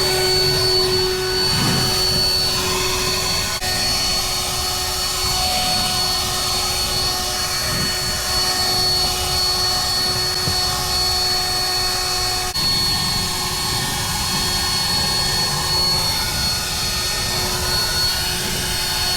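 A power tool's motor running steadily at one constant pitch, just after spinning up to speed, with a whining tone over a rushing noise.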